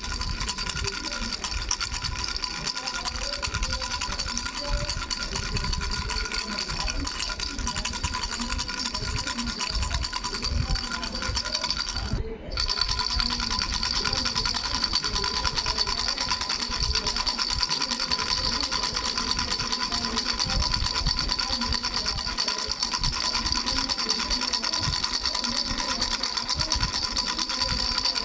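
Baby rattle with three bells being shaken continuously: a fast, even rattling with steady bell ringing over it. The sound breaks off for an instant about twelve seconds in, then carries on.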